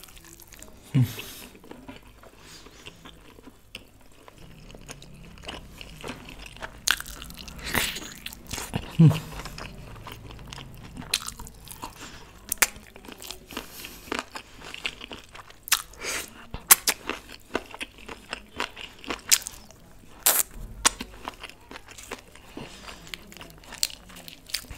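Close-miked chewing and biting of a mouthful of chicken in curry sauce, with frequent sharp wet smacks and clicks throughout. Two brief low hums come from the eater, about a second in and again about nine seconds in.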